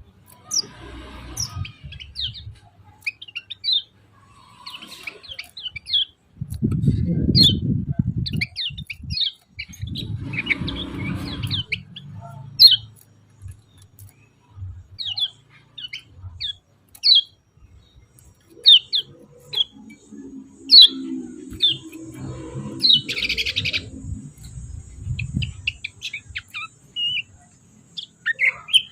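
Common iora (kecial kuning) giving many short, sharp chirping calls, irregularly spaced, the 'ciak ciak' call type. Low rumbling noise comes and goes underneath, and a thin steady high tone joins in the last third.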